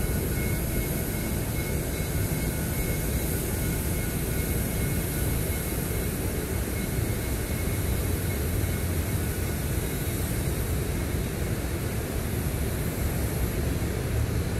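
Steady low rumble of a passenger train rolling slowly across a steel girder bridge.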